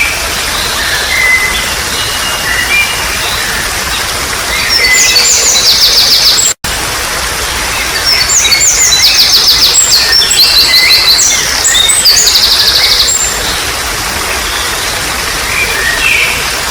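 Steady trickling water under wild birdsong: scattered short chirps, with a bird giving loud, fast runs of repeated high notes twice, for about two seconds and then about five seconds. The sound drops out for an instant between the two runs.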